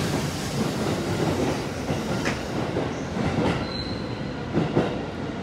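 Tokyo Metro 07 series train pulling out of the station: the last cars run past and the wheel-and-rail rumble slowly fades as it leaves. A few sharp clicks come in the second half.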